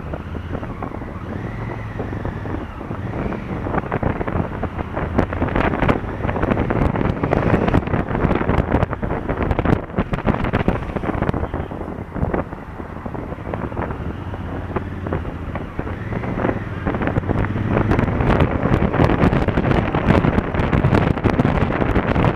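Wind buffeting the microphone of a motorcycle-mounted action camera at riding speed, over the low steady running of a Honda Africa Twin CRF1000L's parallel-twin engine. The wind noise grows somewhat louder through the stretch.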